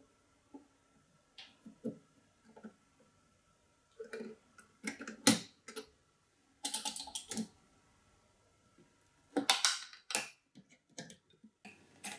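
Hands handling small computer parts: scattered light clicks and taps of plastic and metal, with a few louder clatters in the middle and near the end, while the CPU goes into the motherboard socket.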